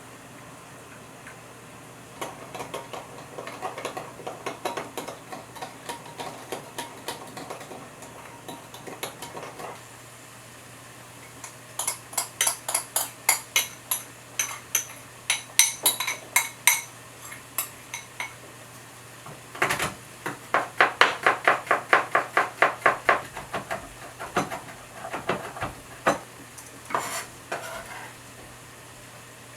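Kitchen utensils clicking and scraping against a bowl in runs of rhythmic strokes, as seasoning is stirred or the acorn-jelly salad is tossed. There are soft strokes first, then sharp bright clicks, and then a louder, faster run of about three strokes a second.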